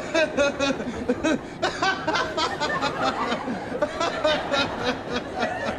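A man's wordless vocal sounds: mumbling, snickering and chuckling in short bursts, with no recognisable words.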